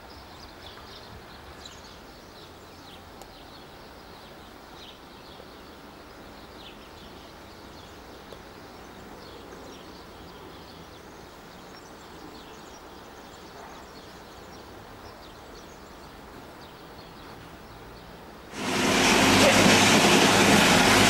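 Quiet outdoor background with frequent faint, high chirps of small birds. About 18 seconds in it switches abruptly to the loud, dense running noise of a moving train, heard from inside a carriage.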